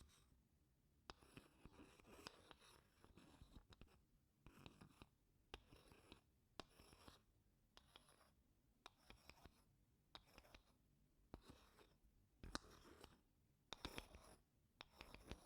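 Wooden spoon scraping across wooden blocks in short, gentle strokes with small clicks, about one every second, with brief pauses between.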